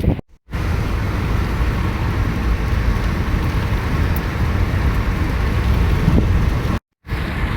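Steady low rumble of vehicle and wind noise with no distinct events, dropping out briefly twice, just after the start and near the end.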